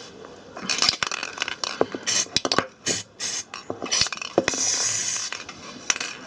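Metal-on-metal blows on a small blunt chisel, driving a rusted, seized inner drum bearing out of a washing machine's drum hub: a run of sharp metallic knocks and clinks, a dozen or more at uneven spacing.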